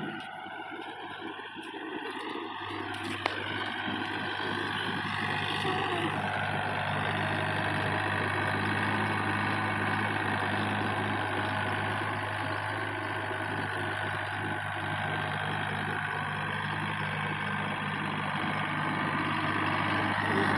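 A motor running steadily with a low hum, its pitch rising in the first few seconds, with one sharp click a little after three seconds in.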